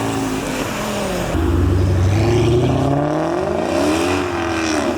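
Modified car engines revving as cars pull away, their pitch rising and falling, with a louder, deeper engine note coming in about a second and a half in.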